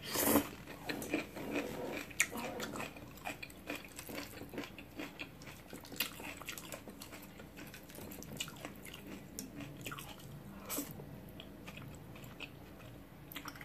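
A person eating: a sharp bite at the start, then chewing of kimchi and black bean sauce noodles with many short wet clicks and smacks.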